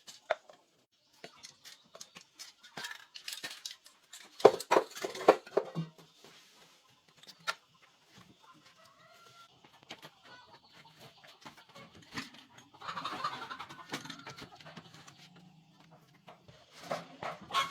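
Chickens clucking amid scattered clicks and knocks, the loudest a cluster of knocks about four to six seconds in.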